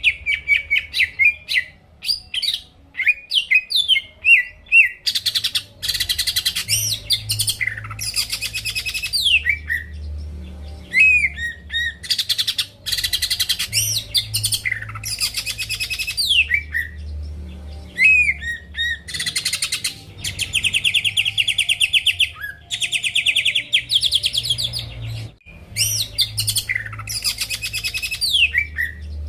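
Cucak ijo (green leafbird) singing in full voice: quick whistled notes that sweep and fall, alternating with long, dense buzzy trills, repeated in bouts, over a faint low hum.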